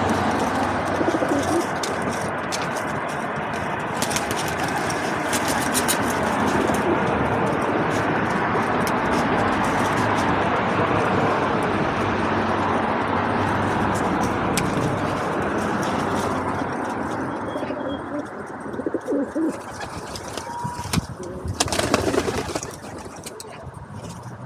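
Feral pigeons cooing over a steady rushing background noise that drops away about two-thirds of the way through. Near the end come a few sharp knocks.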